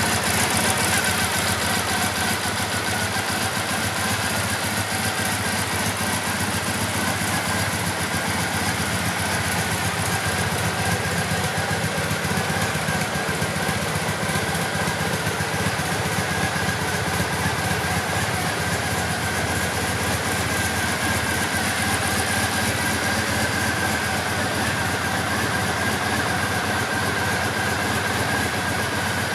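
Triumph Bonneville T100's air-cooled 865 cc parallel-twin engine idling steadily, with no revving.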